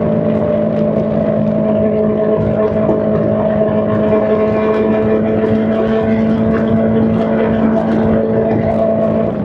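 Honda CBR600's inline-four engine through a straight-pipe exhaust, held at steady revs with little change in pitch.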